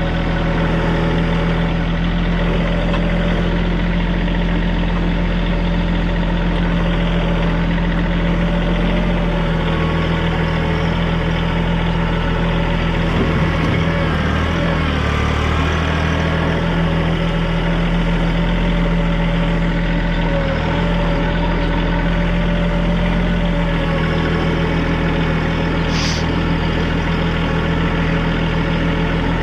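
TYM compact tractor's diesel engine running steadily, its low tone shifting for a few seconds around the middle as the load changes. A brief high squeak sounds near the end.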